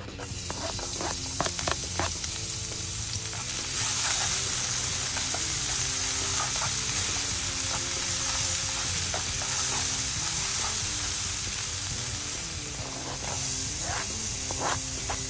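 Minced garlic sizzling in hot olive oil in a non-stick frying pan, stirred with silicone-tipped tongs that tap against the pan. The sizzle starts at once and grows louder about four seconds in. Near the end there are more taps as chopped shrimp is added.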